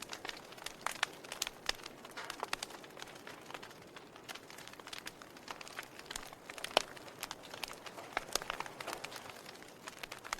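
Wood fire crackling: burning logs pop and snap at irregular intervals over a soft steady hiss, with one sharper pop a little under seven seconds in.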